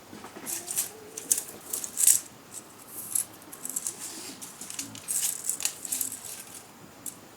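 A run of short, irregular scraping and rattling sounds, some sharper than others, with the loudest ones about two seconds in and again around five to six seconds in.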